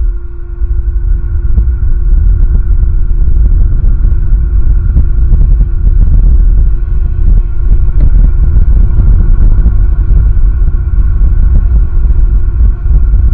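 Strong wind buffeting the outdoor nest-camera microphone: a loud, gusting low rumble that barely lets up.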